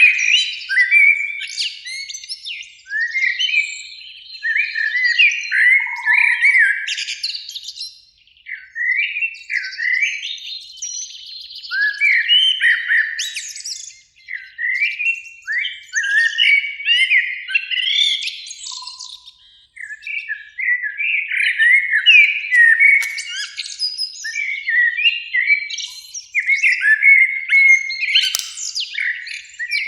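Common blackbird singing, phrase after phrase, with short pauses about 8, 14 and 20 seconds in.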